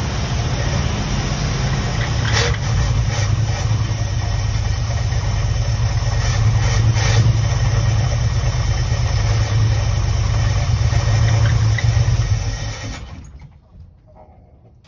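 1975 Winnebago Brave's engine running steadily on a temporary fuel supply, then sputtering out and dying near the end as it runs out of gas.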